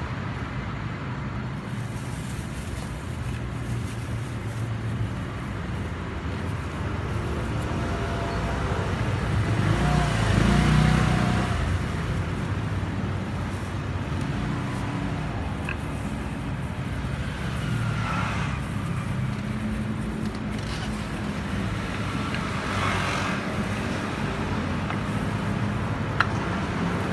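Steady road traffic rumble, swelling as a vehicle passes about ten seconds in, with a few faint clicks.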